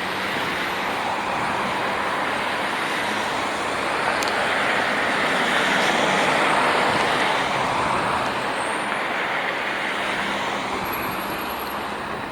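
A vehicle passing by, its rushing noise swelling to a peak about halfway through and then fading.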